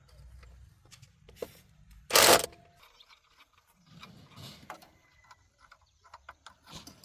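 Scattered light clicks and knocks of hand work on metal parts, with one short, loud noisy burst about two seconds in.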